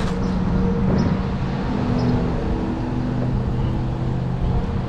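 Steady low hum of an engine or motor running, with a few faint ticks.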